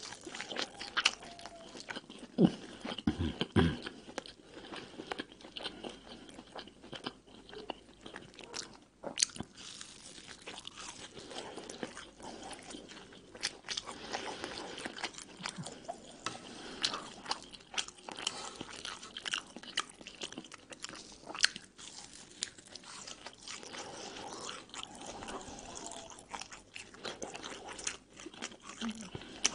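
Close-up chewing and biting of hawawshi, Egyptian baladi flatbread stuffed with spiced minced meat and baked until the crust is browned. The crust crunches and crackles steadily, with a few louder knocks about three seconds in.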